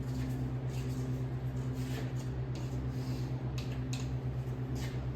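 A machine running steadily: a low hum with a fast, even pulse, with a few light clicks and rustles over it.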